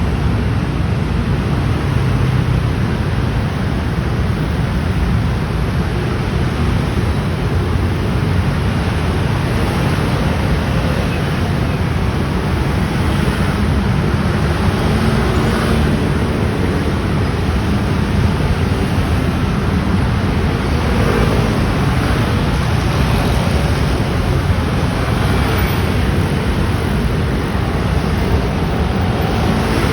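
Dense traffic of motor scooters and motorcycles streaming past in a continuous mass, their engines and tyres blending into a steady drone.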